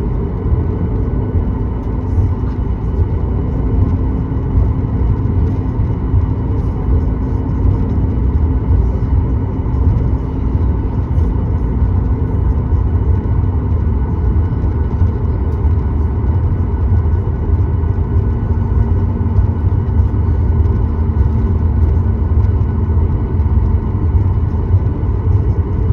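Steady cabin rumble of a Boeing 737-9 MAX from inside the passenger cabin, a low, even noise from its CFM LEAP-1B engines and airframe, with a few faint steady engine tones above it.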